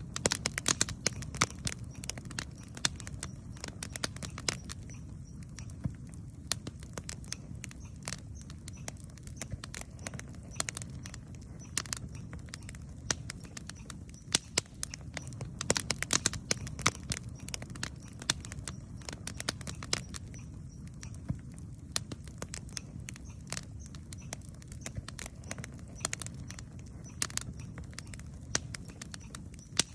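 Campfire burning, with frequent sharp crackles and pops from the wood that come thickest near the start and again about halfway, over a low, steady rumble.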